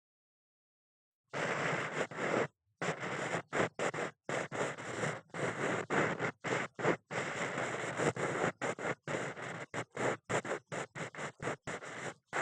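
Ear-cleaning ASMR sounds: an ear pick scratching and scraping in quick, short strokes. They start about a second in and come in many brief strokes with tiny gaps.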